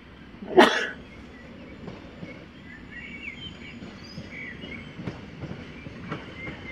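A sharp, loud knock about half a second in. Then a distant EN57 electric multiple unit approaching, with a low steady rumble and a few fainter knocks, while birds chirp.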